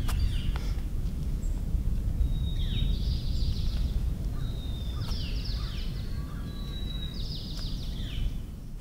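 Small birds giving a few short, falling chirpy calls a couple of seconds apart over a steady low outdoor rumble.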